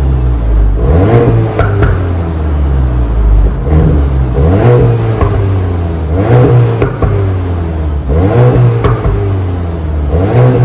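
VW Golf GTI Mk8's turbocharged 2.0-litre EA888 evo4 four-cylinder running through an MS-R valved cat-back exhaust. It is revved up and falls back to idle about every two seconds, five or six times, over a steady low drone.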